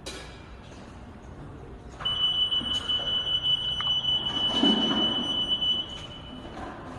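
Continuous high-pitched electronic warning buzzer of a BRAVI Sprint order picker, starting about two seconds in and holding one steady tone for about four and a half seconds before cutting off, with a few soft knocks under it.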